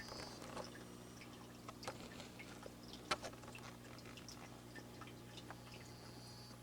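Dwarf frogs singing: faint scattered clicks, with a brief high wavering trill at the start and another near the end, over a steady low hum.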